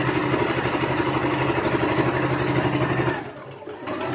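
Sewing machine running steadily at speed, top-stitching a cotton blouse panel, with a fast even stitch rhythm over its motor hum. It slows about three seconds in, then runs briefly again near the end.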